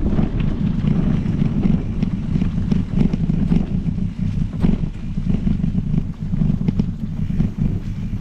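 Wind buffeting the microphone over the running of a Specialized Epic Pro mountain bike's tyres on a trail. Scattered clicks and rattles come from the bike over bumps.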